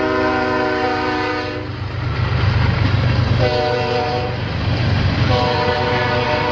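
Locomotive air horn sounding a chord: a long blast ending about a second and a half in, a short blast, then another long blast near the end. This long–short–long pattern is the close of the standard grade-crossing signal. Under it runs a steady low rumble from the passing train.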